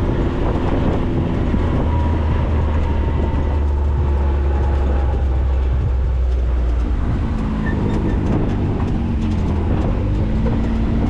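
Maverick 4x4 driving along a dirt track: steady engine and drivetrain drone with a faint whine that slowly falls and rises in pitch, and a few light rattles near the end.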